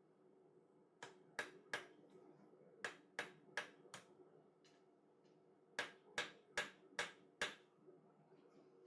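Hand hammer striking hot 4140 steel bar stock on an anvil while tapering a chisel: three blows, a pause, three more, then a run of five, each a sharp short strike about a third of a second apart.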